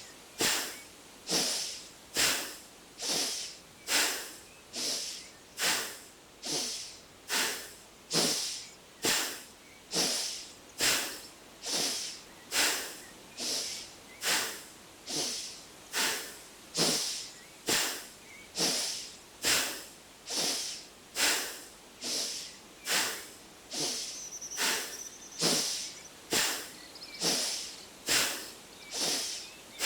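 Bhastrika bellows breath: a person's forceful, rhythmic breaths through the nose, each sharp inhale and exhale a short hissing rush of air, a little over one a second and evenly paced.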